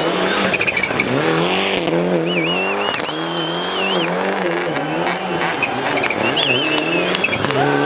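Rally car engine revving up and down again and again under hard driving, with tyres squealing in wavering high tones about two seconds in and again near the end.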